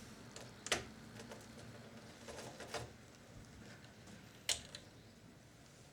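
Quiet room tone with a few light clicks and taps from handling the opened video recorder's mechanism: one about a second in, a couple of fainter ones mid-way, and another near the end.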